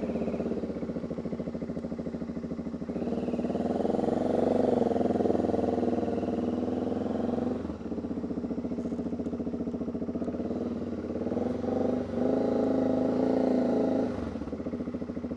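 Motorcycle engine running under way, with its note picking up and getting louder a few seconds in. It drops briefly about halfway through, then pulls again before easing near the end.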